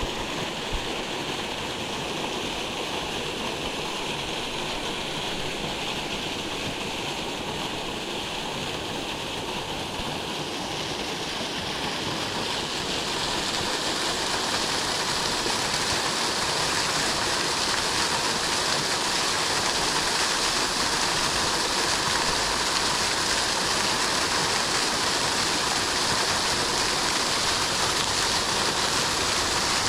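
Water rushing steadily in a stream, growing louder about halfway through.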